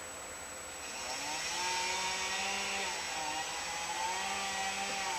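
A motor revving up and falling back twice, over a steady hiss.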